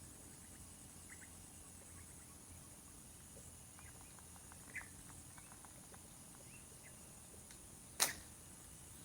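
Faint outdoor ambience: a steady high-pitched insect drone with scattered faint chirps and ticks, and one sharp click about eight seconds in.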